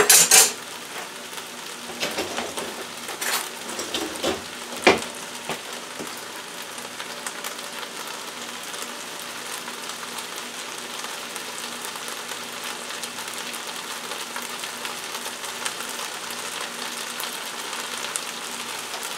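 Fried rice sizzling steadily in a stainless steel skillet on a gas burner, with a few sharp metal clinks in the first five seconds as the serving spoons are set down.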